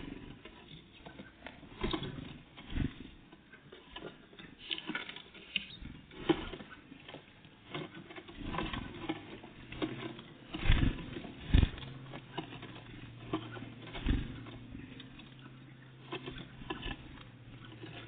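Great tits and blue tits at a bird feeder: irregular pecking taps and light scrabbling, with two louder knocks about halfway through. A faint low hum runs under the second half.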